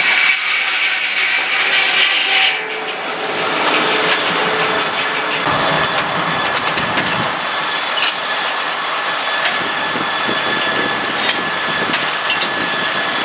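Sawmill running steadily, a continuous mechanical noise with a hiss and a faint steady high whine, and a few light knocks.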